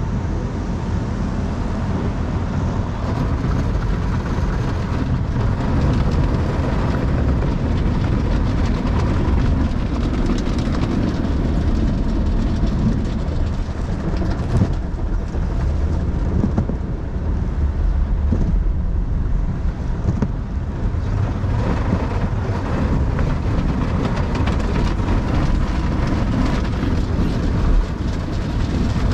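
Automatic conveyor car wash equipment working over a Tesla Model 3: a loud, steady rumble from the wash gear on the car body, with a sharp knock about halfway through and another near the end.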